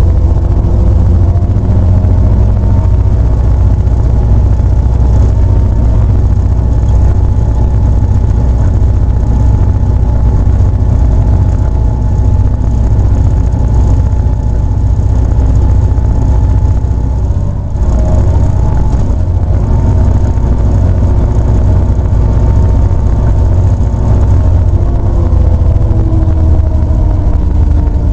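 A train's engines running with a loud, steady, heavy rumble and several steady engine tones above it. There is a brief dip in the sound about two-thirds of the way through.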